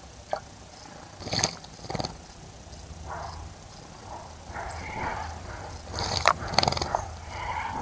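Birds bathing in a bird bath: a few sharp splashes and wing flutters, the loudest about 1.5 and 2 seconds in and again twice around 6 seconds in, with short calls in between.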